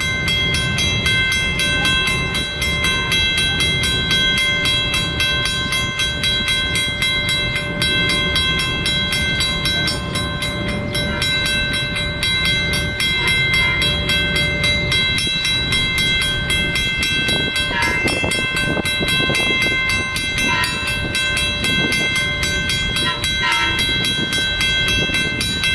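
Long Island Rail Road train running through the station: a loud steady rumble that comes up suddenly at the start, with a steady high-pitched whine above it throughout.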